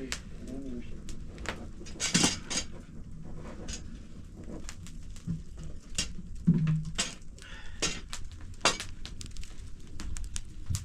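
Irregular sharp clinks and knocks of objects being handled, with a brief low sound about six and a half seconds in.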